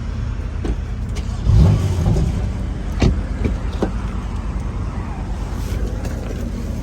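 Car engine running steadily, swelling louder briefly about a second and a half in, with a sharp click about three seconds in.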